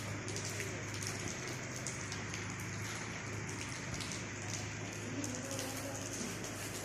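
Steady rain, with scattered drops tapping on a surface and a low, steady hum underneath.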